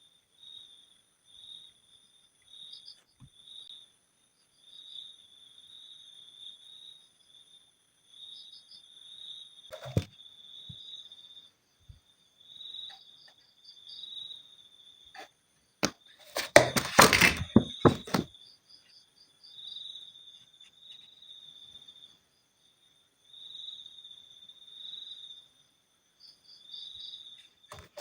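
High-pitched insect-like chirping, typical of a cricket, pulsing on and off throughout. A single sharp knock comes about ten seconds in, and a loud rattling clatter lasting about two seconds comes a little past the middle.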